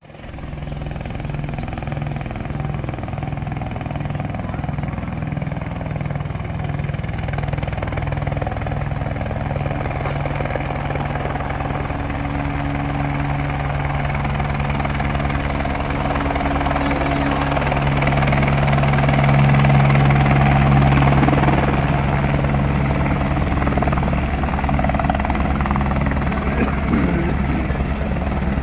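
Helicopter running steadily with a regular rotor beat, getting louder over the first twenty seconds or so and then easing slightly.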